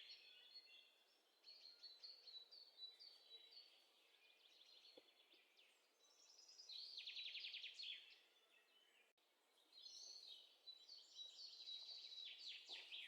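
Faint birdsong: scattered short high chirps, with a rapid trill about seven seconds in and more chirping near the end.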